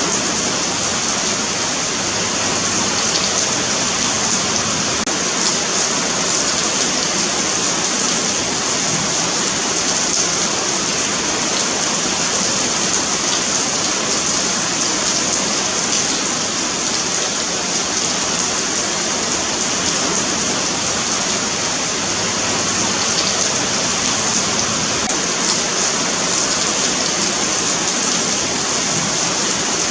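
Steady rain falling on a paved sidewalk, an even hiss of drops on the pavement.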